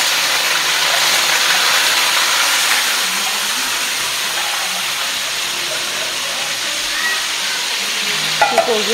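Raw chicken pieces sizzling in hot oil in a wok: a steady frying hiss that eases a little after about three seconds.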